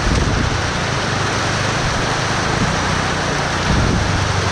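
Dirt bike engine running steadily under a dense hiss of storm rain and wind.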